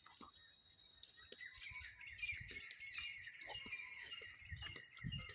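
Small birds chirping and twittering in a continuous chorus, with a few low bumps near the end.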